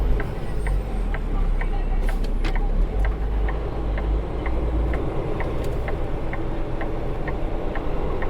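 Inside a semi truck's cab: the engine runs with a low rumble, and the turn signal ticks steadily, about twice a second, for a right turn.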